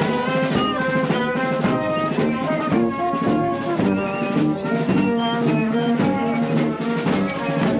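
Marching band playing: brass instruments over drums.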